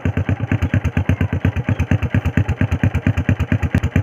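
Motorcycle engine idling through its exhaust silencer, a steady, even beat of about ten pulses a second.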